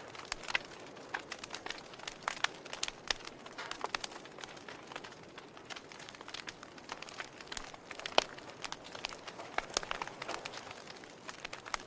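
Fire crackling: irregular sharp pops and snaps, a few every second, over a soft steady hiss.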